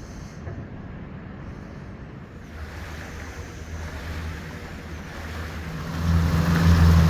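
Boat engine running with a steady low hum and rushing water, growing much louder about six seconds in.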